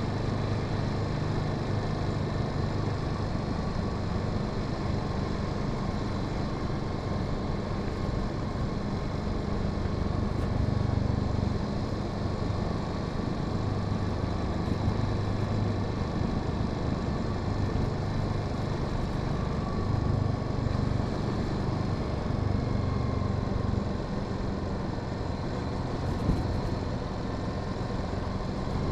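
Honda Sahara 300's single-cylinder engine running steadily while riding, its note swelling and easing a little every few seconds with the throttle, over a constant rush of road and wind noise.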